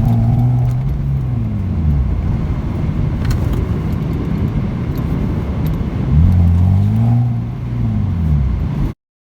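A car being driven hard: the engine revs climb and drop twice, at the start and again about six seconds in, over steady road and tyre noise, then the sound cuts off suddenly near the end.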